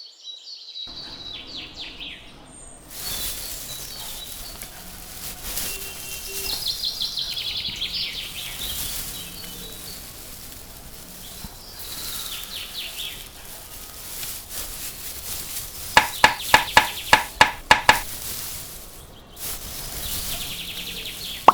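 Birds chirping over a steady background hiss, with a quick run of about eight sharp pops a little before the end.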